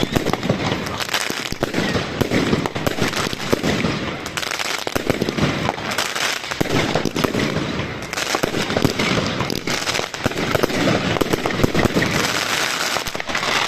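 Fireworks going off in a dense, continuous barrage of sharp bangs and crackles.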